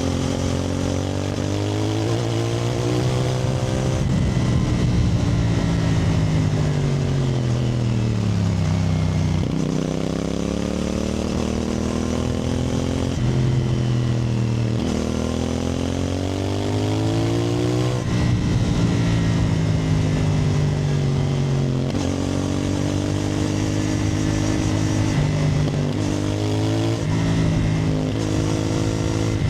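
CFMoto 450NK's parallel-twin engine under way, revving up through the gears with a drop in pitch at each shift. About a third of the way through the revs fall away as the bike slows, then it pulls up through the gears again.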